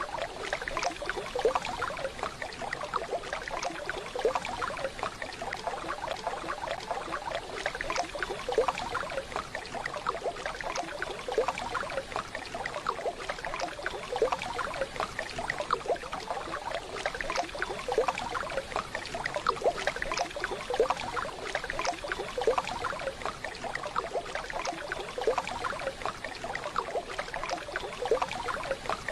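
Waterfall: a steady splashing rush of falling water.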